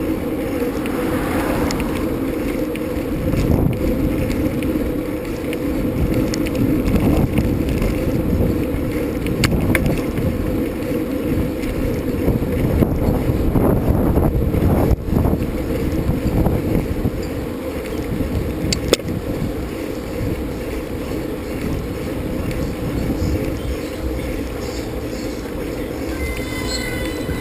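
Wind rushing over the microphone while riding a bicycle, with scattered clicks and rattles.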